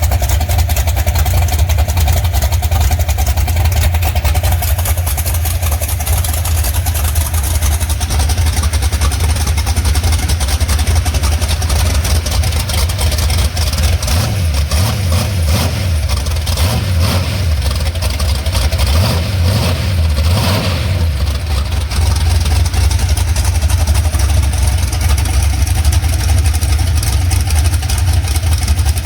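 Twin-turbocharged 470-cubic-inch big-block Mopar V8 running loudly and steadily, with a few rises and falls in engine speed in the middle stretch.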